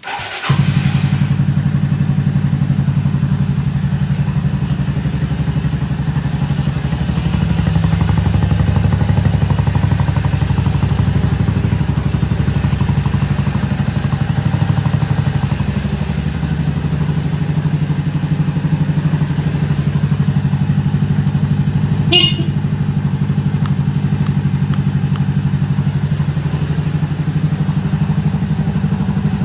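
Suzuki Skywave 250S (CJ43A) scooter's single-cylinder engine starting and catching at once, then idling steadily through an aftermarket muffler. A short sharp click is heard about three-quarters of the way through.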